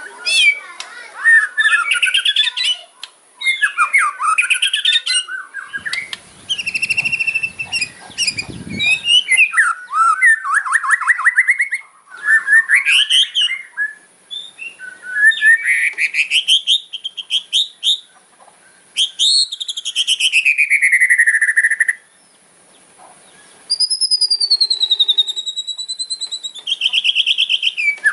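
White-rumped shama (murai batu) singing its aggressive 'kretekan' fighting song: fast rattling, clicking trills that sweep up and down in pitch, broken by short pauses. About 24 seconds in comes a long wavering whistle.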